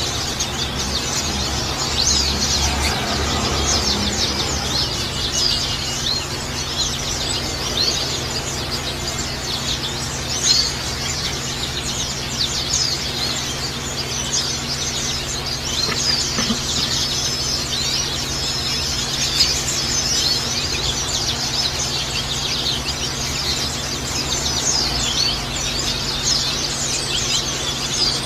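Trickling, splashing water with many small birds chirping quickly and continuously over it.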